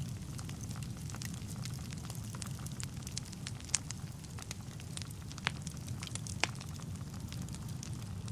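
Wood fire burning in a fireplace: a steady low rumble of the flames with scattered sharp crackles and pops, a few louder snaps about four, five and a half and six and a half seconds in.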